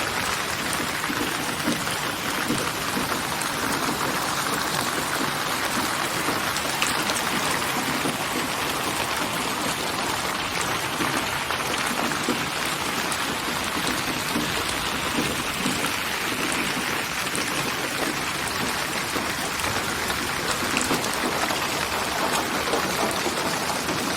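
Steady rain falling, a dense even hiss of drops with scattered individual drop ticks, presented as 8D panned white noise for sleep.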